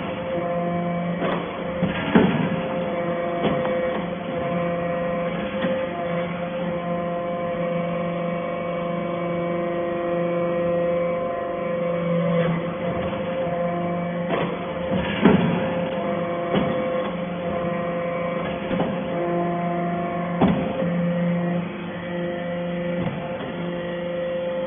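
Metal-chip baler running: a steady electric-motor and hydraulic-pump hum with several fixed tones, broken by a few clanks, the loudest about two seconds in and about fifteen seconds in.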